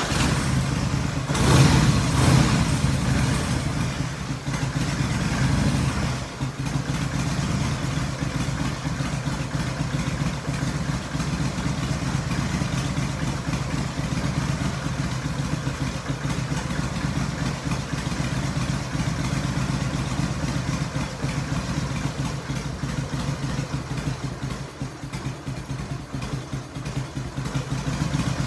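Harley-Davidson Sportster XLH883's air-cooled V-twin just after starting: a brief rev about two seconds in, then a steady idle.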